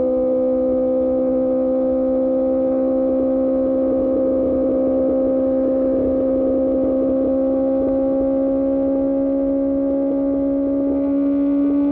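Motorcycle inline-four engine through an Austin Racing exhaust, held at high revs. Its steady note rises slowly in pitch as the bike gathers speed.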